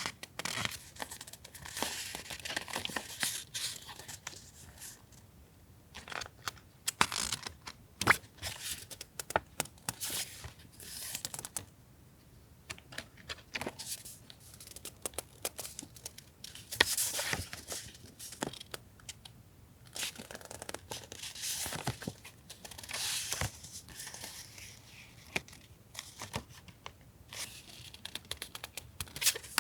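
Paper and plastic stationery packaging rustling, crinkling and tearing as it is handled, in irregular bursts with small sharp taps in between.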